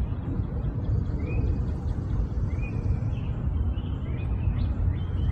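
Outdoor ambience of a bird chirping short rising notes about once a second over a steady low rumble.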